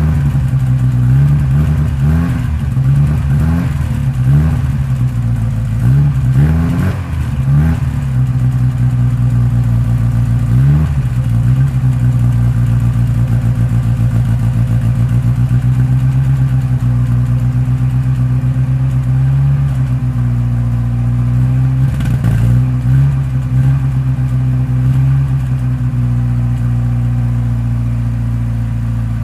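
1960 Moskvitch 407's four-cylinder engine running just after a winter cold start: revved up and down several times over the first ten seconds or so, then settling into a steady idle.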